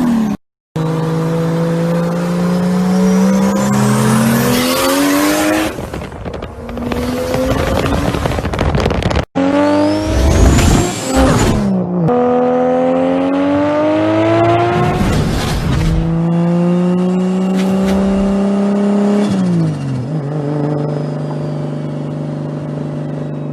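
Turbocharged Toyota 2JZ straight-six running hard, its pitch climbing as it revs and dropping back several times as it shifts or lifts, with a rising turbo whistle about four seconds in and again around ten seconds. The sound is from several clips cut together, breaking off briefly at each cut.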